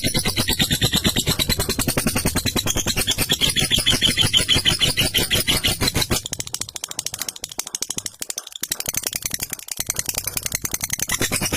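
Lovebird giving its long 'ngekek' chatter: a fast, unbroken rattle of sharp, shrill notes, many each second, easing somewhat after about six seconds.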